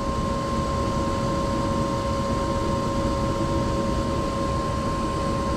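Small two-burner gas furnace running: a steady hum and whine from its freshly replaced inducer motor over a low rumble of burners and blower, running smoothly with no screech.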